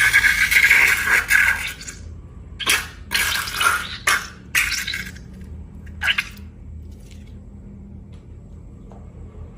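Liquid pouring steadily for about two seconds and stopping, then about five short wet splashes or squelches, as slime ingredients are poured and mixed.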